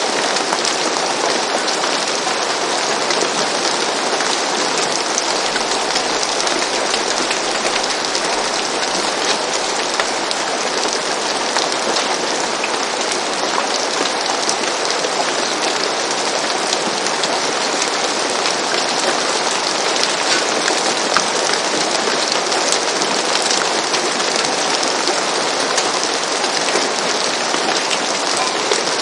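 Steady gentle rain falling on a roof: an even hiss of rainfall dotted with countless small drop ticks.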